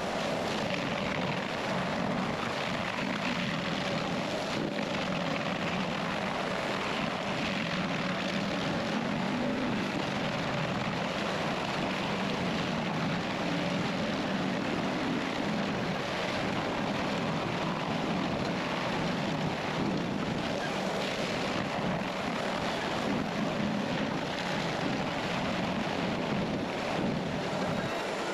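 Engine of a stump twisting machine running steadily under load, a dense, unbroken mechanical noise.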